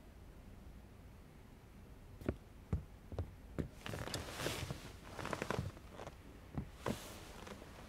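Four footsteps on a hard floor, about half a second apart, then about two seconds of rustling as things around a couch are handled, and two more knocks near the end.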